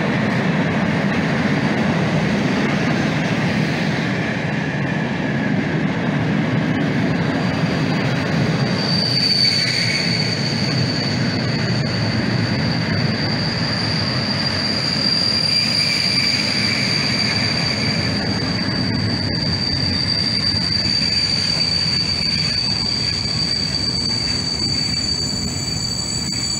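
Freight train's cement hopper wagons rolling past on the rails with a steady low rumble. About nine seconds in, a steady high-pitched brake squeal sets in and holds as the train slows to a stop at a signal.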